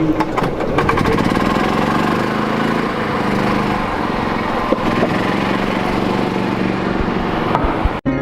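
Longboard wheels rolling over pavement: a steady, loud rumble with a few clicks, cutting off suddenly near the end.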